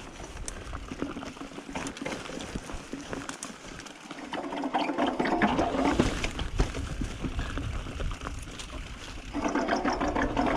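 Mountain bike and rider moving on a dirt trail: a stream of small clicks and rattles, with rolling tyre and wind rumble growing louder from about halfway through.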